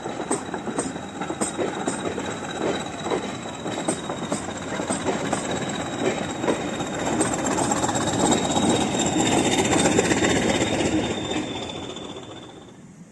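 Steam-hauled train passing: a steady rhythm of wheels clicking over rail joints, growing louder toward about ten seconds in, then fading away near the end.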